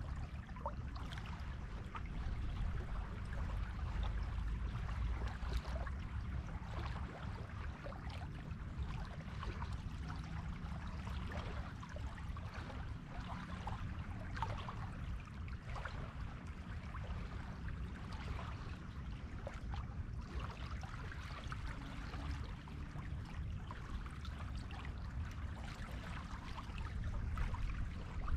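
Surf washing onto a beach: a continuous low rumble of waves under a fizzing, crackling hiss of foam, swelling slightly now and then.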